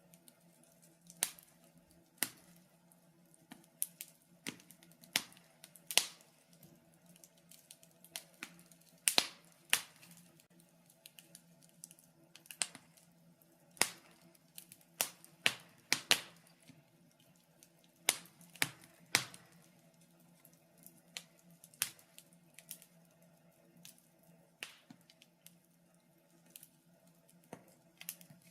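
Wood fire crackling in a fireplace: sharp, irregular pops and snaps, roughly one or two a second and uneven in loudness, over a faint steady low hum.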